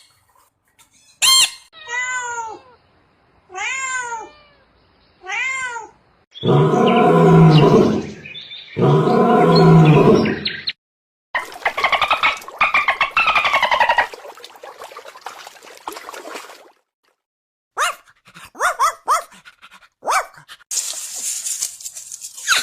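A series of meow-like animal calls. Several short calls rise and fall in pitch, followed by two long, loud calls at about 6 to 11 seconds, then a clattery rattle near the end.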